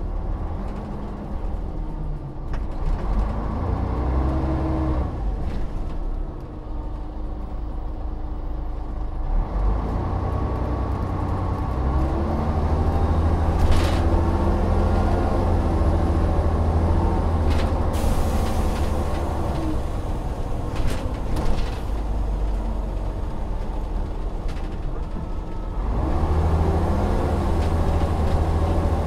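Volvo Olympian double-decker bus engine running on the move, its pitch rising and falling several times as it pulls through the gears. There are a few sharp clicks in the middle, and it gets louder near the end.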